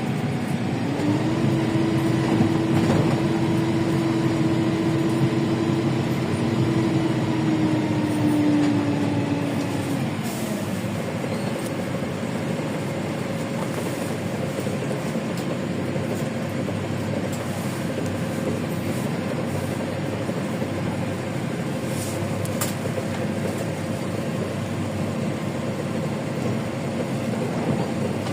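LiAZ 5292 city bus driving, heard from inside the cabin: its Yuchai engine and drivetrain run under load with a steady whine that steps up about a second in and drops away about ten seconds in, followed by a steadier, higher hum.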